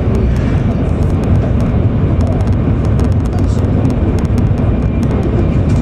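Interior running noise of an E7 series Shinkansen at speed: a loud, steady low rumble from the running gear and the passing air, with many faint scattered clicks over it.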